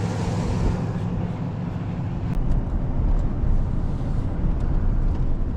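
Vehicle engine and road noise from driving, a steady low drone.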